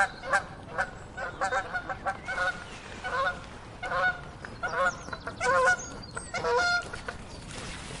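Waterfowl honking: a run of short, pitched honks, about two a second and irregularly spaced.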